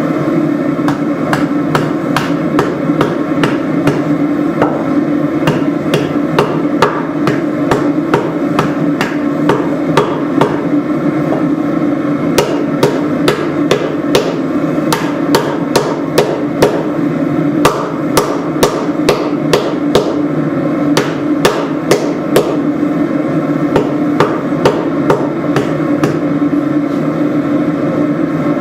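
Hand hammer striking hot spring steel on an anvil, beveling a tanto blade: a steady run of ringing blows, roughly one to two a second, over the steady roar of the forge.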